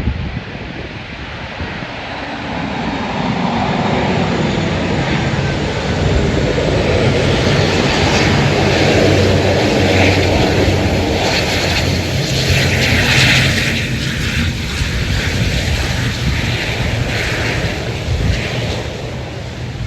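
An airliner's engines passing close by, rising to a loud, steady rush that holds for several seconds and then fades.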